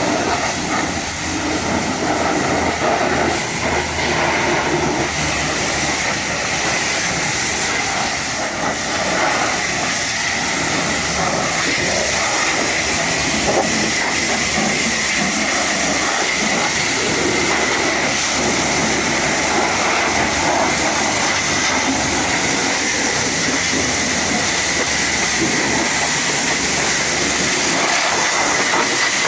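High-pressure washer spraying water in a steady hiss, with a steady high-pitched whine.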